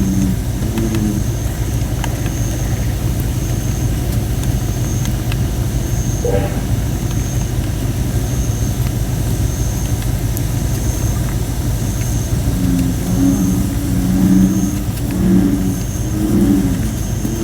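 Campfire of thin, under-dried red robin (Photinia) firewood crackling with scattered small pops. American bullfrogs call in low, pulsed croaks briefly at the start and in a long run through the second half, over a steady low rumble, with a faint high chirp repeating about every half second.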